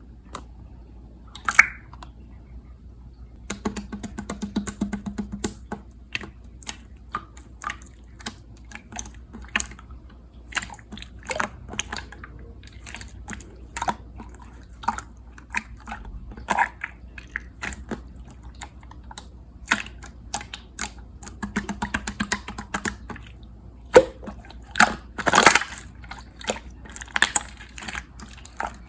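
Clear slime squeezed and pressed by hand, making irregular wet clicks and pops, with a louder burst of pops about 25 seconds in.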